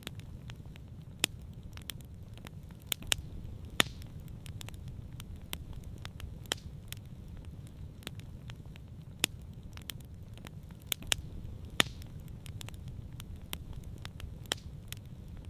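Campfire burning, with sharp, irregular crackles and pops over a steady low rumble; the loudest pops come about four seconds in and again near twelve seconds.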